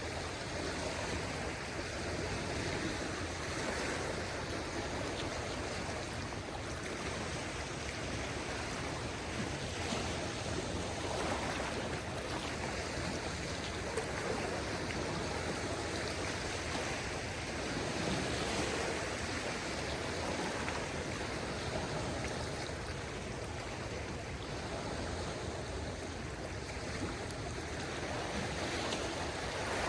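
Small waves of a calm sea washing on the shore: a steady wash of water that swells gently now and then.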